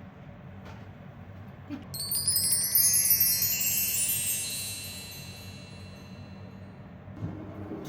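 A run of small metal chimes tinkling in a quick cascade that falls in pitch, starting about two seconds in and ringing out over the next few seconds.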